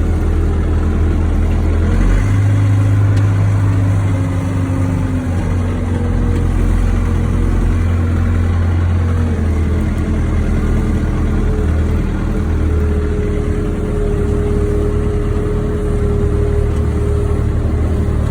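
Wheel loader's diesel engine running under load, revving up about two seconds in and easing back near the middle, with a steady whine over the engine note.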